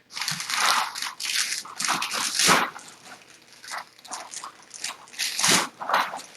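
Kittens scuffling about, making a run of irregular crunching, rustling noises in several clusters.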